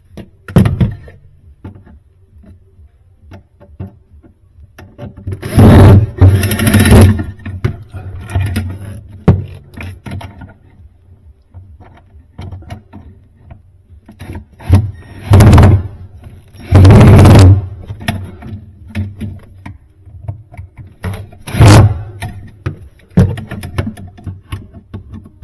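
Screws being fastened to mount an ice maker inside a Sub-Zero built-in freezer: several loud bursts of working noise about a second long, with light clicks and knocks of tools and parts in between.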